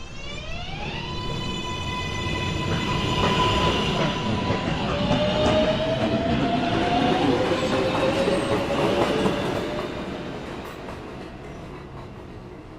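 Subway train pulling out of a station: the electric traction motors give a rising, stepped whine as it speeds up, over the rumble and clatter of the wheels. The sound swells through the middle and fades as the train runs on.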